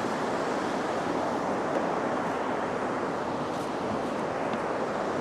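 Steady rushing outdoor noise, even and unbroken, with a few faint clicks.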